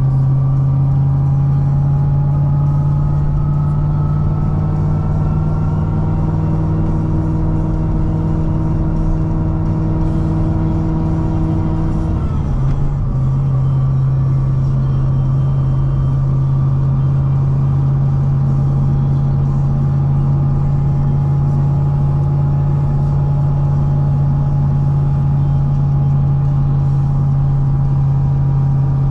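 Supercharged 6.2 L LS9 V8 of a Chevrolet Corvette C6 ZR1, upgraded with a Kong 2650 supercharger, cruising at steady moderate revs under light load. The engine note climbs slowly, breaks briefly about twelve seconds in, then holds steady.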